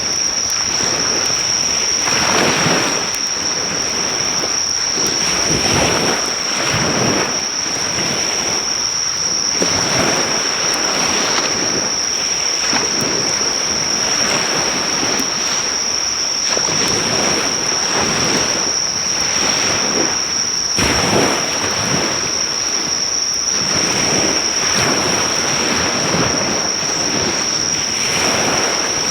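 Sea waves breaking and washing on a beach, swelling and ebbing every few seconds, under a steady high-pitched insect trill. The crackle of a driftwood fire is faint beneath them.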